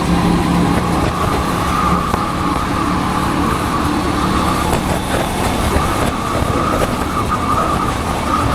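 Motorcycle engine running steadily while riding, picked up by a helmet-mounted camera, with no change in pitch.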